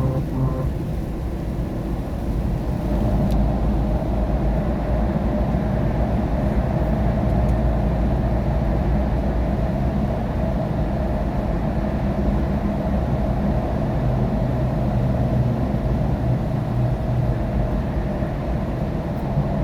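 Steady road noise of a car driving on a rain-wet highway, heard from inside the cabin: a low engine and tyre drone with the hiss of tyres on the wet road, unchanging throughout.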